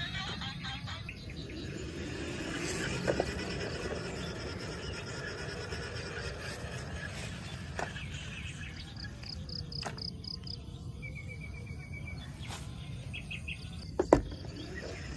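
Steady background noise with short runs of quick, evenly pulsed high chirps, and two sharp knocks, the louder one near the end.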